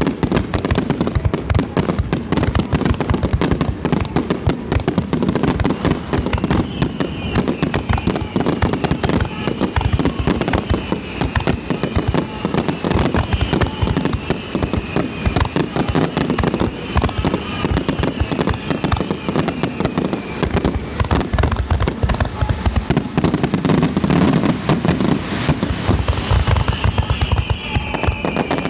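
Aerial fireworks display: a continuous, dense barrage of shell bursts and crackling. Short falling whistle tones repeat through much of it and again near the end.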